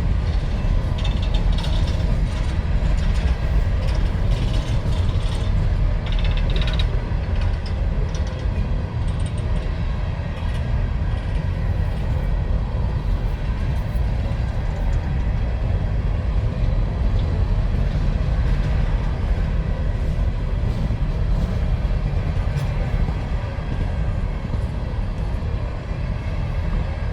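Freight train of empty mine cars rolling past: a steady low rumble with irregular clanking and clattering of wheels and car bodies, busiest in the first few seconds.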